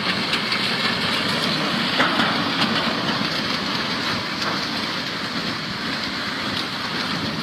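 River in flood rushing past, a steady loud noise of fast muddy water carrying logs and debris, with a few faint knocks mixed in.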